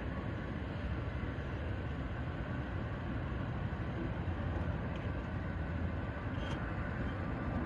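Steady low rumble with hiss, even throughout with no distinct events: the mixed noise of an airport and its surroundings.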